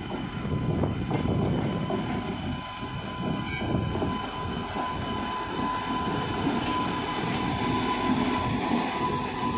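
An electric locomotive hauling a passenger train approaches and passes close by, with a dense rumble of wheels on rail throughout. A steady high whine grows louder in the last few seconds as the locomotive draws level.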